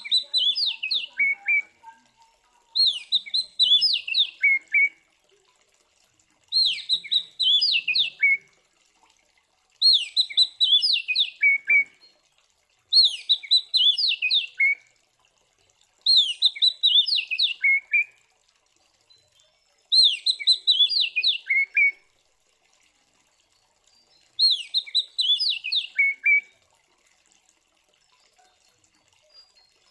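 Oriental magpie-robin (kacer) singing one loud whistled phrase over and over. Each phrase lasts about two seconds and steps down in pitch, repeating about every three to four seconds with short pauses between.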